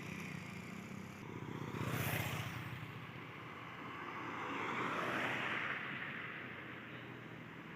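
Vehicles passing on a road. One goes by briefly about two seconds in, and another swells past around five seconds in, its engine and tyre noise rising and then fading.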